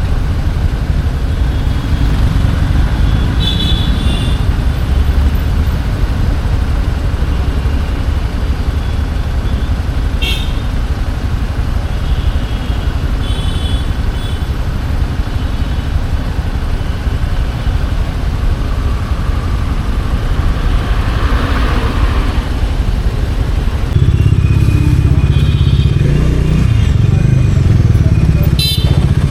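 Bajaj Dominar 400's single-cylinder engine and road wind while riding in city traffic, a steady low rumble that gets louder about three-quarters of the way through. Short horn toots from traffic sound several times.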